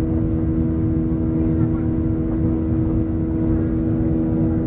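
Boeing 737-800 jet engines running with a steady drone: a constant hum over a low rumble.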